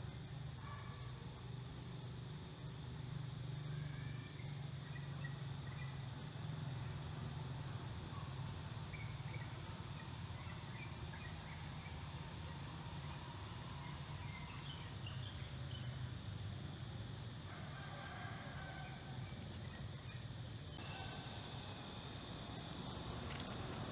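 Forest ambience: insects sounding steadily on one high note, with scattered short bird chirps.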